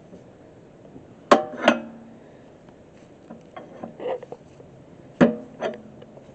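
Steel dual-wheel clamps being clanked into place on a tractor rim: two pairs of sharp metal clanks that ring briefly, each pair about half a second apart, with a few lighter knocks between them.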